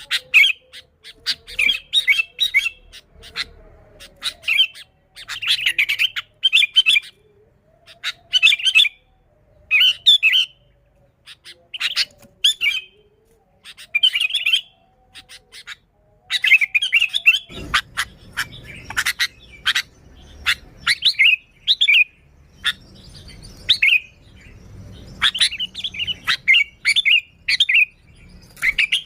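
Sooty-headed bulbul calling vigorously: short, bright chattering phrases repeated about once a second with brief pauses between them.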